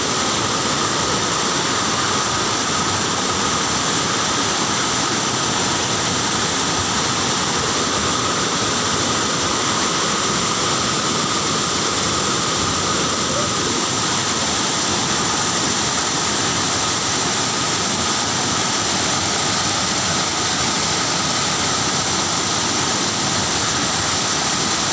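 Waterfall pouring: a loud, steady rush of falling water with no change throughout.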